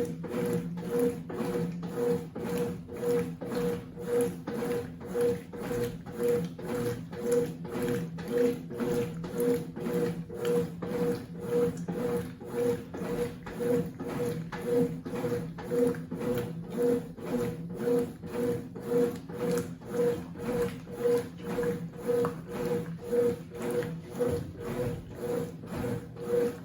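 Consul CWC08 8 kg washing machine agitating a single-bed bedspread: its motor and wash action hum in even pulses about twice a second, then stop abruptly at the very end.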